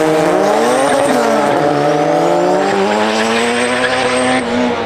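Turbocharged Honda Civic's 1.8-litre B18C GSR four-cylinder running hard down a drag strip, the note climbing, dipping about a second in, then climbing steadily again. Near the end the note drops away as the engine breaks up and loses power, which turned out to be a distributor plug not fully seated.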